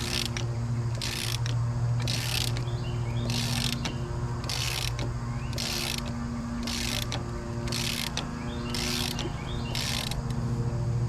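A hand pump on a hydraulic puller being worked in even strokes, about one a second, each stroke a short scratchy rasp, as it forces a stuck gear and drum off a winch shaft. A steady low electrical hum runs underneath.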